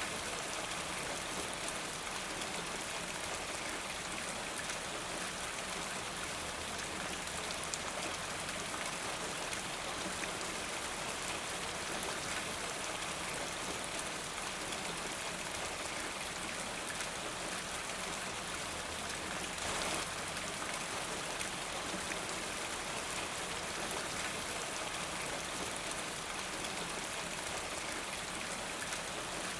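Steady rain falling: an even hiss with scattered drop ticks, briefly a little louder about twenty seconds in.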